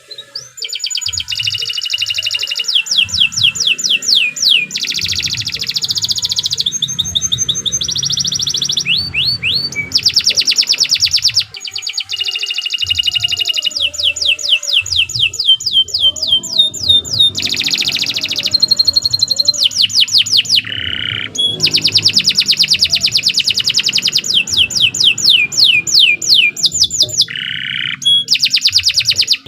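Domestic canary in full song: a long run of fast trills and rolls, rapid strings of repeated high notes, some sliding down in pitch, with a brief pause about eleven seconds in.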